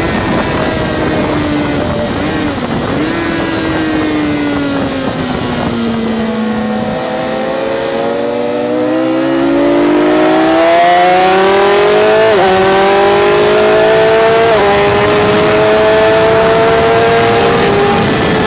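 Sport bike engine heard from onboard: its pitch falls as the bike slows through a corner, then climbs under hard acceleration. Two upshifts about two seconds apart each drop the pitch suddenly, and the note holds steady near the end.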